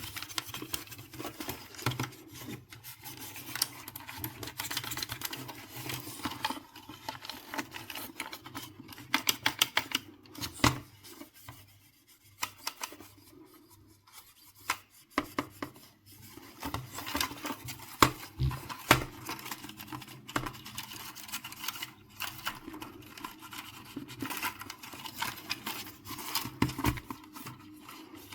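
Hand work on PlayStation 4 console parts: repeated rubbing and scraping, broken by many small clicks and knocks, easing off for a few seconds in the middle.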